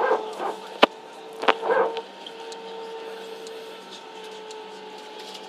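Steady hum inside a parked airliner's cabin, with a few short calls and two sharp clicks in the first two seconds.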